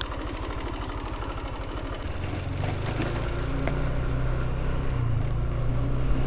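Small motorbike or scooter engine idling with a rapid even beat, then picking up revs and pulling away about two seconds in, running steadier and a little louder.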